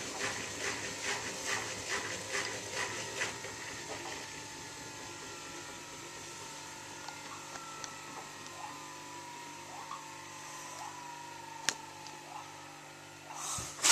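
Miele W3744 washing machine in its spin: the drum motor's whine falls slowly and steadily in pitch as the drum slows, with a rhythmic knocking about twice a second in the first few seconds and a single sharp click near the end. The spin will run up no further, and the uploader's tags put this down to an unbalanced load.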